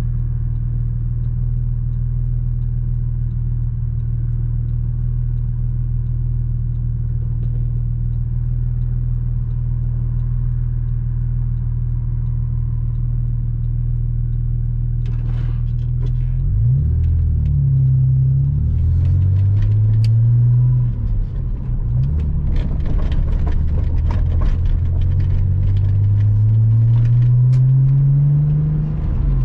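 Porsche Boxster 986's flat-six engine running at a steady pitch, then, about halfway through, accelerating through the gears: the engine note climbs, drops at each shift, and climbs again in a long pull near the end. Light ticks and clatter come and go over it.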